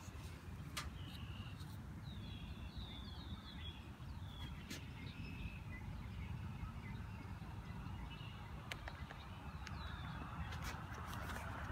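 Outdoor birdsong: a small bird chirping in short runs of quick notes over a low steady rumble, with a few sharp clicks.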